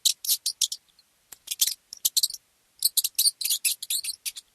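Mouse squeaking: rapid, very high-pitched squeaks in irregular bunches of several, with brief pauses between bunches.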